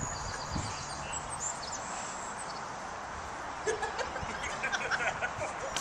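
Birds chirping, with a short repeated trill, over a steady outdoor hiss. A cluster of short clicks and soft sounds comes in the last couple of seconds.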